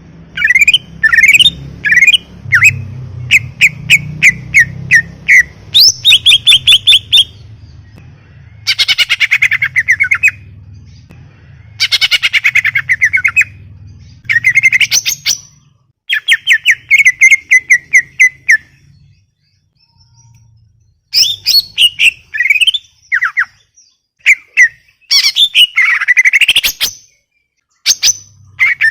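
Cucak ijo (greater green leafbird) singing loudly and continuously. It sings in bursts of rapid, sweeping chirps and whistled phrases about one to two seconds long, with short pauses between them. A faint low hum lies under the song in the first half.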